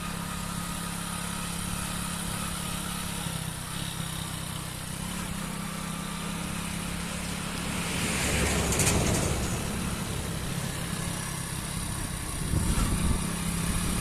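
Hero Splendor motorcycle's single-cylinder engine running steadily, with a louder swell of noise about eight seconds in and another shorter one near the end.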